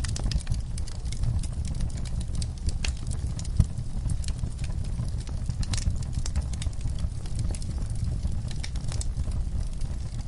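Fire crackling, with dense irregular sharp pops over a steady low rumble, and one louder pop about three and a half seconds in.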